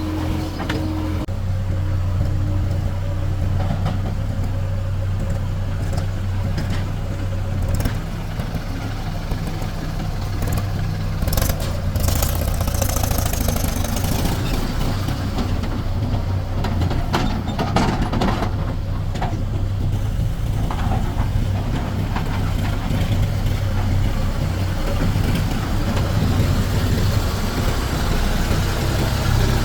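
Heavy diesel engine of an earthmoving machine running steadily, with a few short knocks about a third and about two thirds of the way through.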